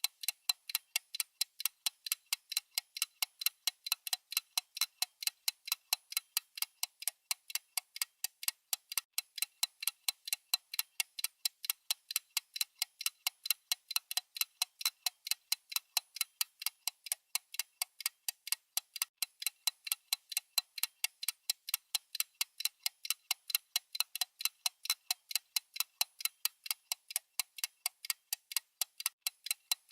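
Clock-style ticking sound effect of a countdown timer: fast, even, sharp ticks repeating several times a second without a break.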